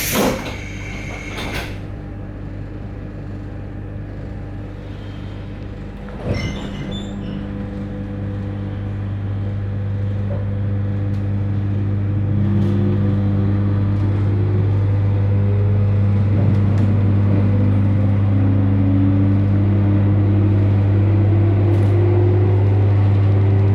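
JR Hokkaido 721-series electric train pulling away, heard from on board: a steady low hum with the traction motors' whine rising in pitch from about halfway through as the train gathers speed.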